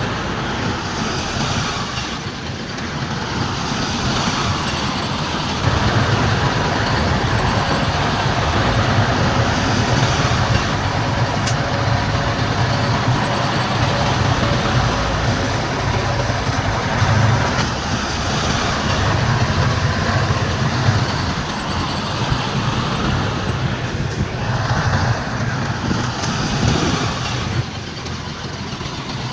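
Heavy diesel earthmoving machinery running with a steady engine rumble, which grows louder about five seconds in and eases back near the end.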